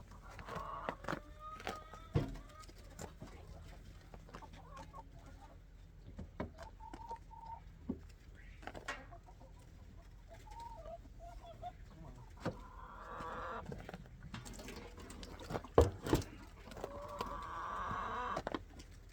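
Chickens clucking and calling, with two longer calls in the second half, among sharp knocks and clatter that are loudest about two seconds in and again near the end.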